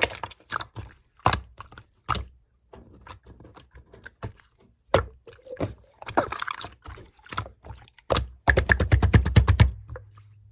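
Clear slime being squeezed and pressed by hand, giving a string of sticky clicks and small air-bubble pops. A fast, dense run of pops comes near the end.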